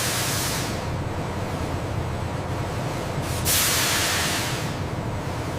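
Factory machinery rumbling steadily, with two loud bursts of hissing, one at the start and one about three and a half seconds in, each fading away over a second or so.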